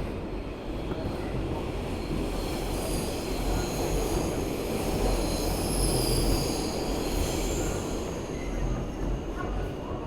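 R160B subway train running with a steady rumble of wheels on rail, while its steel wheels squeal in several high thin tones that build a couple of seconds in and fade near the end, as on a curve.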